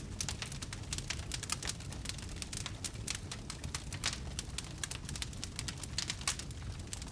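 Wood fire burning in a fireplace, with dense, irregular crackling and pops over a low steady rumble of the flames.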